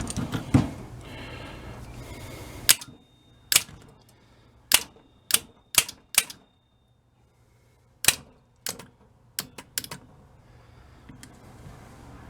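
Weasel starter solenoid energized on the bench: a series of sharp, irregularly spaced clicks as the plunger snaps in and releases, beginning about three seconds in. The solenoid is working.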